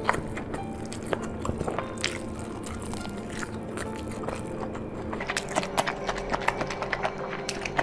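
Close-miked mouth sounds of someone eating: chewing and biting with quick, uneven wet clicks, which grow busier and faster from about five seconds in.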